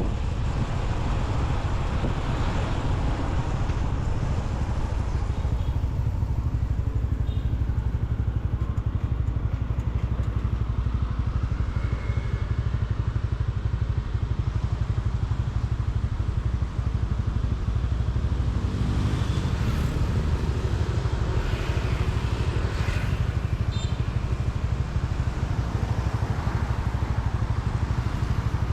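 Motorcycle engine running steadily while being ridden, with road and traffic noise.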